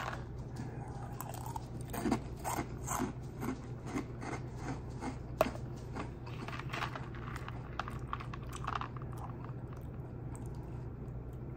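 Close-miked crunching as a person chews a mouthful of dry Oreo O's cereal: a run of crisp, irregular crunches about two a second that thin out near the end. A steady low hum runs underneath.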